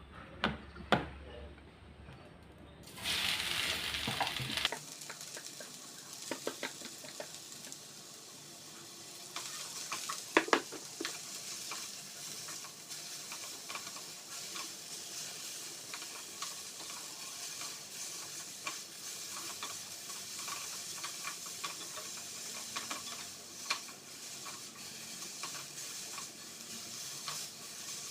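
Food sizzling in hot oil in a pan as it is stir-fried, with a utensil clicking and scraping against the pan throughout. There is a louder burst of sizzling about three to five seconds in, and a cluster of sharper clacks a few seconds later.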